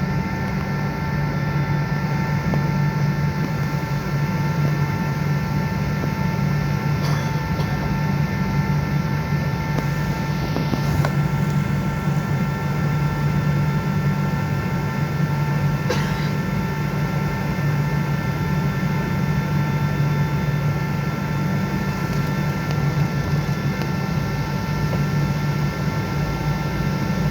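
Airliner engine noise heard inside the passenger cabin: a steady low drone with several high whining tones held over it. A few faint clicks sound over it.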